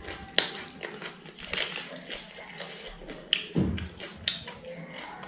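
Close-up eating sounds: crisp crunches and wet clicks of a person chewing raw cabbage leaf wrapped around rice, with several louder sharp crunches at irregular moments.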